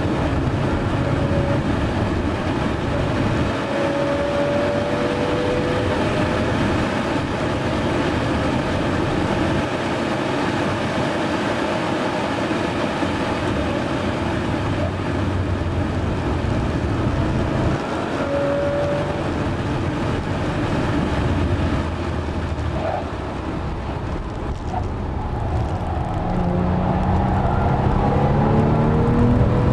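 Porsche 997 Carrera S flat-six engine and tyre and road noise heard from inside the cabin at track speed. It eases off a few seconds before the end, then pulls hard again, its pitch rising as the car accelerates.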